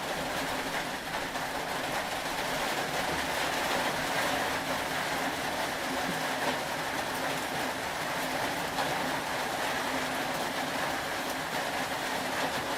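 Steady rain falling, an even continuous hiss with no breaks or distinct drops standing out.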